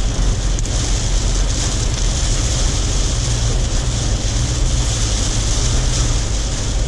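A vehicle driving steadily, its running noise mixed with wind rushing over the microphone.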